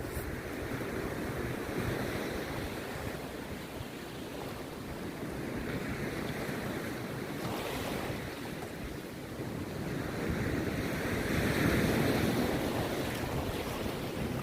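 Rough sea surf breaking on the beach, in slow swells with the loudest wave crashing about two-thirds of the way through, with wind buffeting the microphone.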